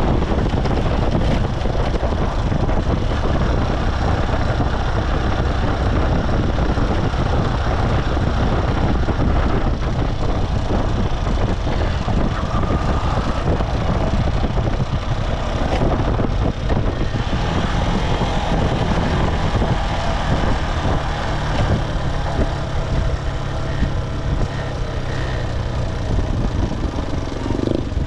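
Motorcycle riding along a road: the engine running under the rider, with heavy wind buffeting on the microphone and passing traffic noise.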